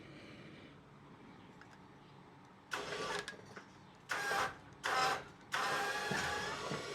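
Several short bursts of metal squeaking and rattling as the heavy antique stationary engine is lowered back onto its cart.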